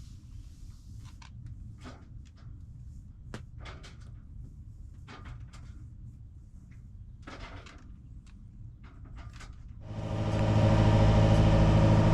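Low rumble with scattered light clicks and knocks. About ten seconds in, the sailboat's engine comes in loud and runs steadily with a deep hum.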